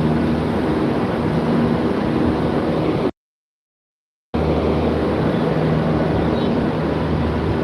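Loud, steady hum and rush of running chiller plant machinery, with several constant low tones. The sound cuts out completely for about a second a little before the middle, then resumes unchanged.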